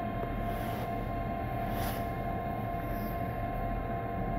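Inside an electric train carriage standing at a station platform: a steady low rumble and the even hum of the train's equipment, with two constant tones. A short hiss comes about two seconds in.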